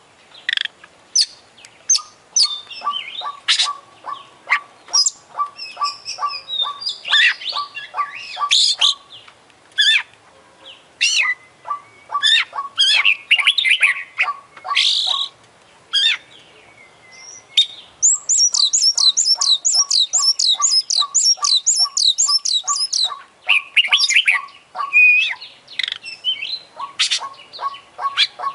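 Oriental magpie-robin (kacer) singing a varied, loud song packed with imitations of other birds: sharp chirps, whistles and clicking notes. About two-thirds of the way through comes a rapid trill of repeated falling notes lasting about five seconds.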